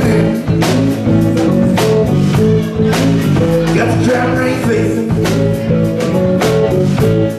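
Live blues-rock band playing an instrumental passage: guitar and drum kit with a steady beat, no vocals.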